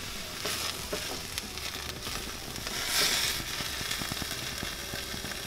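Tempeh, peppers and onions sizzling in a hot cast iron skillet while a spatula stirs them, with small scrapes and taps against the pan. The sizzle swells briefly about three seconds in.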